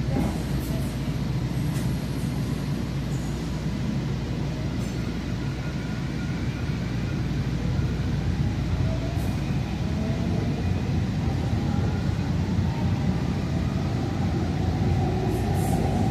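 Inside a light-rail train car while it runs: a steady low rumble of the ride. In the second half a faint whine rises in pitch as the train picks up speed.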